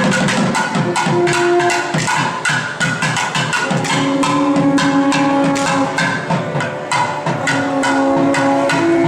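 South Indian temple festival music: fast, dense, sharp drum strokes running under a melody of long held notes that step between pitches.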